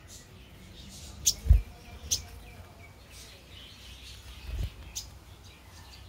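Small bird giving a few sharp, high chirps, with a short run of softer, quicker notes between them. Two low thumps are also heard, the louder one about a second and a half in.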